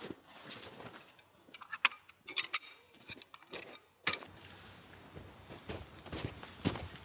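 Small metal items being handled: scattered clicks and clinks, with one brief ringing clink about two and a half seconds in.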